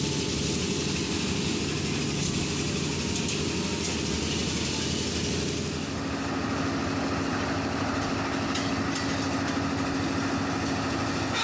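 An engine running steadily. About six seconds in its note changes and a new steady hum comes in.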